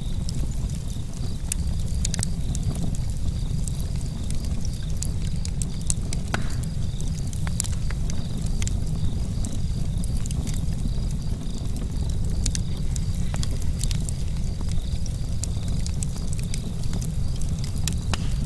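Campfire burning outdoors, with many scattered sharp crackles and pops over a steady low rumble, and crickets chirping steadily.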